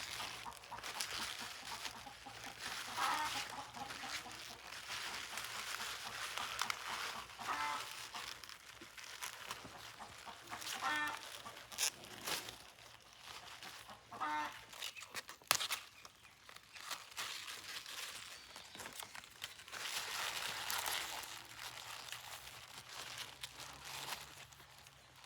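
Chickens clucking, a few short pulsed calls spaced a few seconds apart over a steady background hiss and rustle, with one sharp knock about halfway through.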